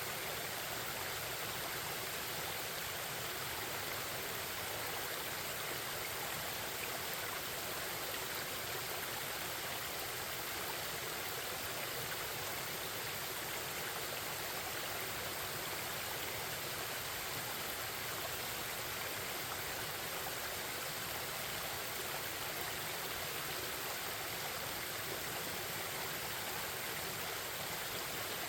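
Forest stream babbling: a steady, even rush of flowing water.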